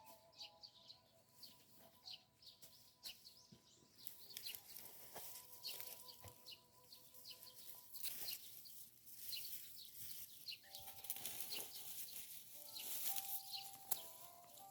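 Several small birds chirping in quick, high, repeated notes, faint.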